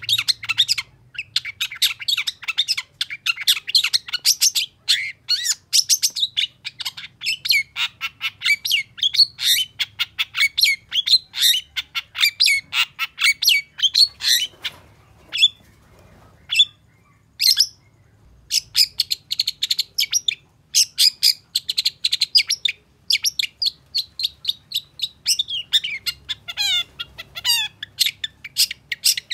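Long-tailed shrike (cendet) singing a fast, chattering song of rapid, sharp notes. Around the middle it thins to a few scattered calls for several seconds, then the rapid song resumes.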